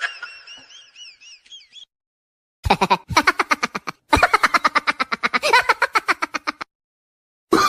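A rapid, staccato laugh in two runs of short pitched 'ha' pulses, about nine a second, the first run a little over a second long and the second about two and a half seconds, after a faint high warbling squeal that fades out near the start.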